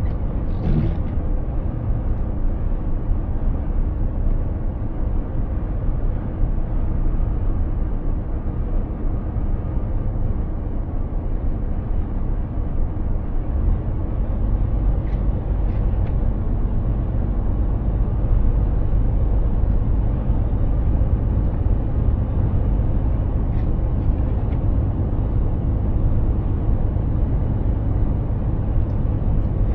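Mercedes-Benz Actros 2763 truck driving: a steady low engine and road drone, growing a little louder about halfway through, with a brief falling whoosh about a second in.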